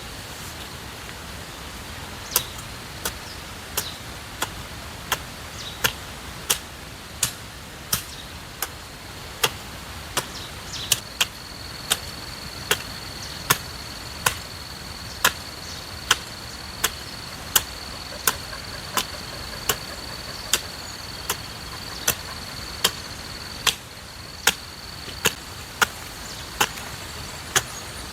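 A hoe chopping into soil again and again at a steady working pace, about three strikes every two seconds, while digging vegetable beds. An insect's steady high buzz joins about a third of the way in.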